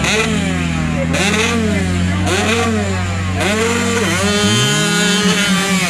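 Motorcycle engine revved in short blips about once a second, the pitch rising and falling each time, over another engine running steadily. Near the end, one engine rises steadily in pitch as it speeds up.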